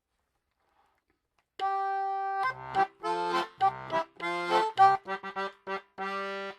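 German concertina playing a bouncy tune with bass notes under the melody. It starts after about a second and a half of silence with one long held note, then goes into short, detached phrases.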